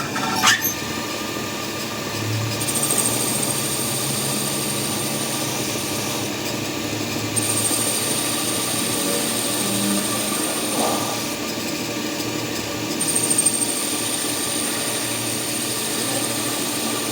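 A workshop power tool running steadily, with a thin high whine that drops out twice along the way and a sharp click just after the start.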